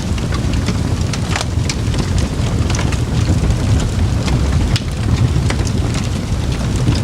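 Campfire burning: a steady low rush of flame with frequent sharp crackles and pops from the burning wood.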